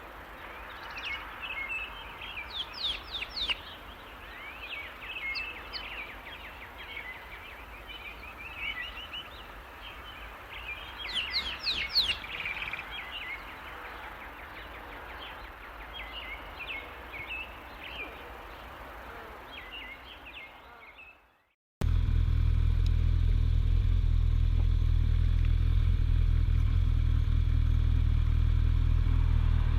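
Wild birds singing, a run of chirps and quick rising and falling whistles, over quiet outdoor air. About twenty seconds in this cuts off and gives way to the loud, steady drone of a Suzuki GSF1250S Bandit motorcycle under way.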